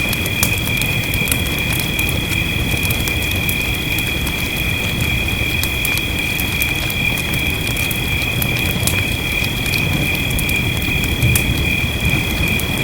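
Wood fire crackling, with many sharp irregular pops, over a steady hiss of rain. Throughout there is also a continuous high-pitched drone on two steady pitches, like a night chorus of frogs or insects.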